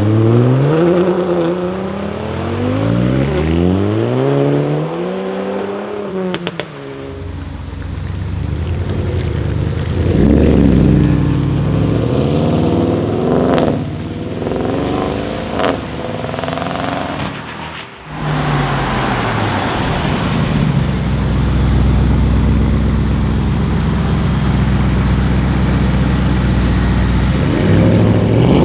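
Audi RS6 C8's twin-turbo V8, fitted with catless downpipes and an OPF delete, revved several times, its pitch sweeping up and down, with a few sharp exhaust cracks in between. Later it runs as a steady low drone, then revs up again near the end.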